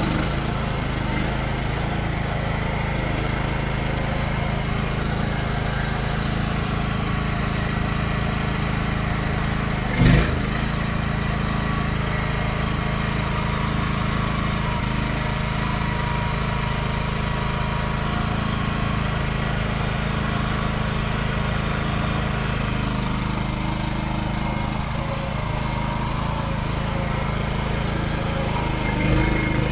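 An engine running steadily at an even speed, with a single sharp knock about ten seconds in.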